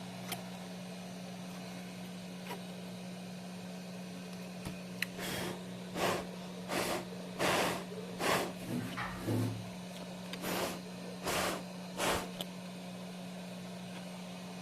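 A steady low electrical hum, and partway through a run of about nine short hissing puffs of air, roughly one a second, just after a chip has been reworked on a motherboard.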